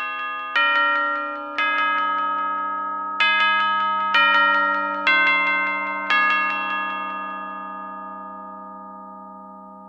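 Chimes striking a short melody of ringing notes, about one a second, in two groups with a short gap between them; the last note, about six seconds in, is left to ring and fade slowly.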